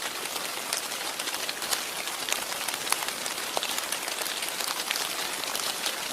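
Steady patter of precipitation striking a surface close to the microphone: an even hiss speckled with many small, sharp ticks.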